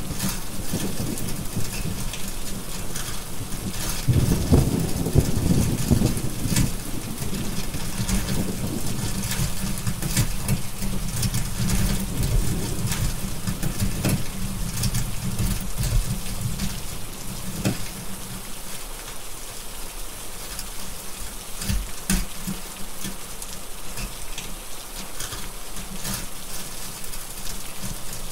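Steady heavy rain with thunder rumbling, loudest about four to seven seconds in and dying away after about seventeen seconds, while a fire crackles with scattered sharp snaps.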